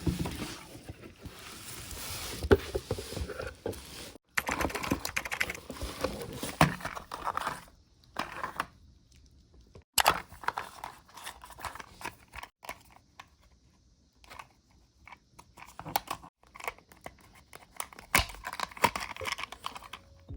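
Packaging crinkling and tearing as stationery is unboxed and handled, mixed with small clicks and taps of the items, in several short clips that cut off abruptly.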